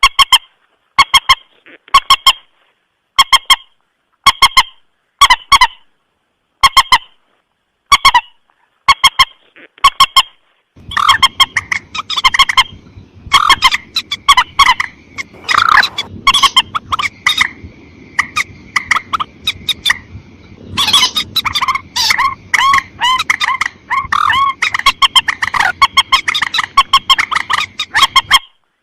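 Looped lure-call recording of the mandar sawah (a rail) calling: short clipped notes in quick clusters, repeated about once a second. About a third of the way in a hiss comes up behind them and the calls turn denser and overlapping, with a brief steady whistling tone near the middle.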